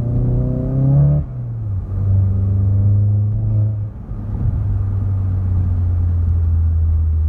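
Volkswagen Golf GTI Mk7's turbocharged 2.0-litre four-cylinder engine pulling through the gears while driving. The engine note rises for about a second, drops at a gear change, holds steady, drops again at a second shift about four seconds in, then settles into a steady cruising drone.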